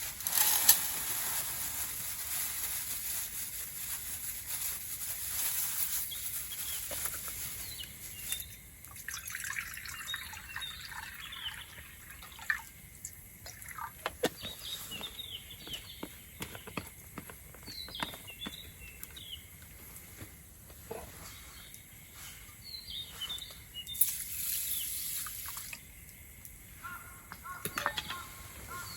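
Camp cooking with birds chirping: scattered clicks and knocks of utensils, and a liquid hiss in the first few seconds and again near the end, while small birds chirp again and again through the middle.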